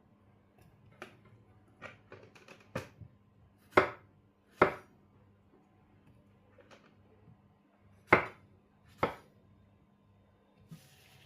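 Knife chopping on a cutting board in separate, irregular strokes, about nine sharp knocks with the loudest ones near the middle and again near the end.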